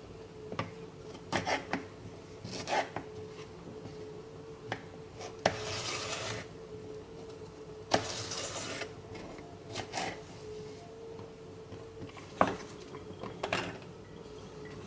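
Kitchen food-preparation sounds: scattered light knocks with two scraping, rubbing strokes of about a second each in the middle, over a faint steady hum.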